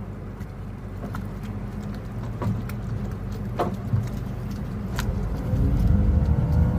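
An engine running steadily with a low hum, with scattered clicks and knocks over it; it grows louder about five and a half seconds in.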